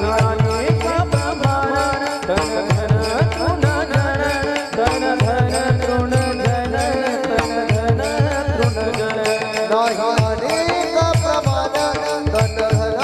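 Devotional kirtan music: a sustained melody over fast, dense drum strokes and steady ringing cymbals.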